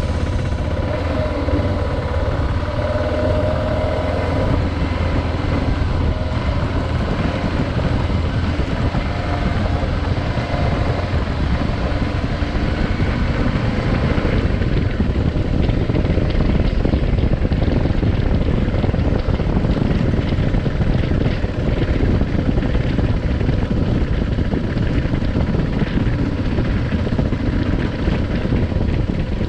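Adventure motorcycle under way, its engine running in a steady drone with rushing wind noise on the microphone.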